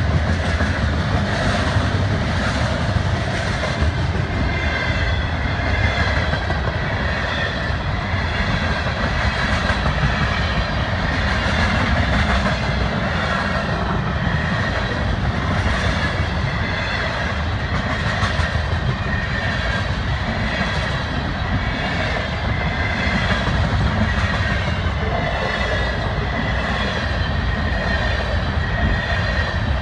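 Freight train rolling past close by: gondola and tank cars rumbling and clattering steadily over the rails.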